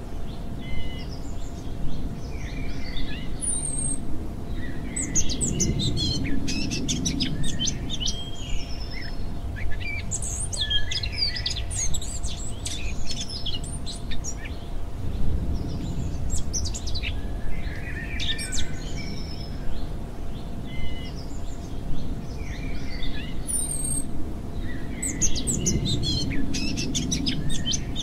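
Nature-sounds birdsong track: several birds chirping and trilling over a steady low rumble, the same stretch of recording repeating about every 20 seconds.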